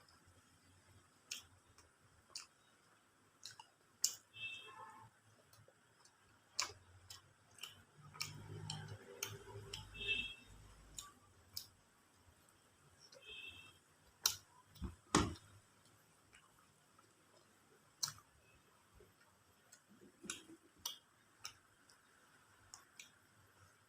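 Close-miked eating sounds: irregular sharp clicks and smacks of someone chewing and handling chicken biryani, a few a second at most, with a low mumble of movement a third of the way in.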